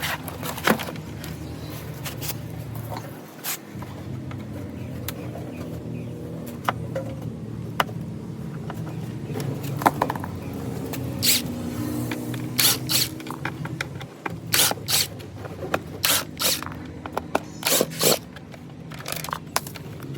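Hand tools scraping and prying at a small speaker unit's casing, with sharp clicks and snaps that come thicker in the second half, over a steady low hum.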